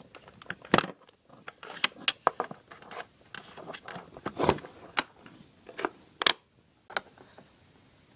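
Small plastic toys and play-set pieces being handled, giving irregular sharp clicks and taps, the loudest about a second in, about four and a half seconds in and just after six seconds.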